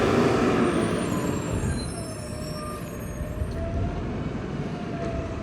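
Garbage truck with a Peterbilt cab running, loud with a hiss at first and easing off over about two seconds into a steadier, lower rumble, with faint high squeals.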